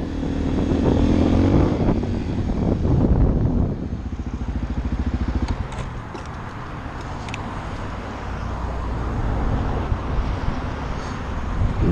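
Motorcycle engine rising in pitch as it accelerates during the first couple of seconds, then running steadily with road and wind noise.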